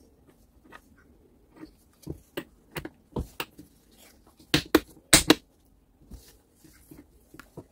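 Irregular clicks and knocks of small hard parts and tools being handled and set down, a few a second at most, with the loudest knocks about four and a half to five and a half seconds in.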